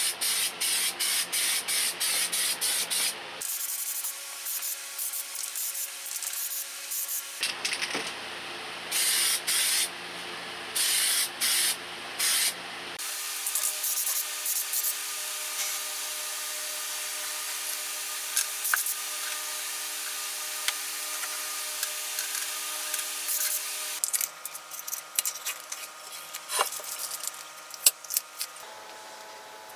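Hand sanding: rapid back-and-forth rubbing strokes on a tool part, in several short segments cut together, with a faint steady hum underneath.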